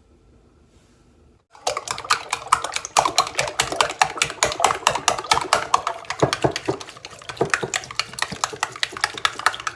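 Eggs being beaten with a fork in a bowl: a fast, even run of clicks from the fork striking the bowl, about eight strokes a second, starting about a second and a half in.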